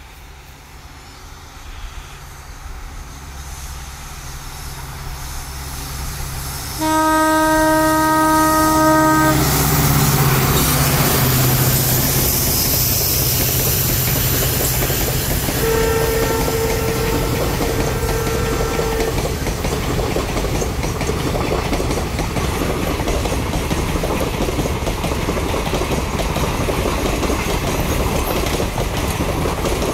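WDP4D diesel-electric locomotive (EMD 16-cylinder two-stroke engine) approaching with a low engine hum that grows louder, then sounding its air horn in one long blast about seven seconds in as it comes level. Two shorter horn blasts follow around sixteen seconds, while the passenger coaches run past with a steady, loud noise of wheels on rail.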